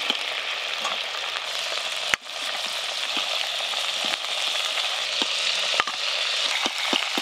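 Chicken pieces sizzling steadily as they fry in hot oil in a kadai, with a few sharp clinks of a metal slotted spoon as the fried pieces are lifted out onto a steel plate.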